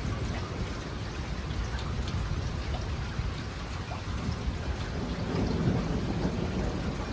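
Steady rain falling during a thunderstorm, with a low rumble of thunder swelling about five seconds in.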